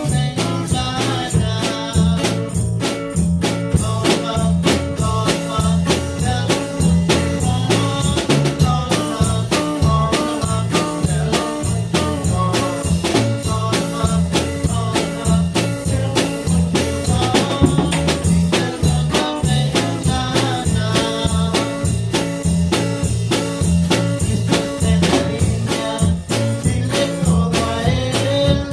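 Band music with a drum kit keeping a steady beat over a repeating bass line.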